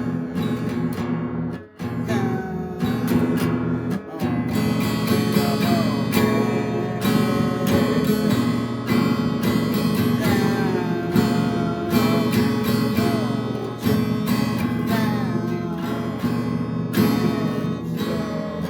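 Music led by a strummed acoustic guitar, with a gliding melody line over it.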